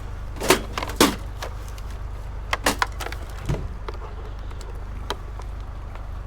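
Hard scrap items knocking and clattering as they are handled: about five sharp knocks in the first four seconds, the loudest about half a second and a second in. A steady low engine hum of an idling vehicle runs underneath.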